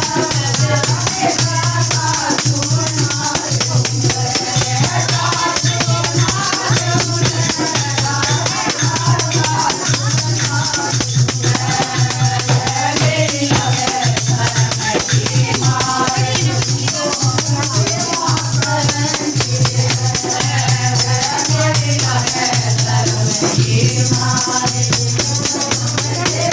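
Kirtan music: voices singing a devotional chant over a steady, low drum beat and continuous jingling percussion.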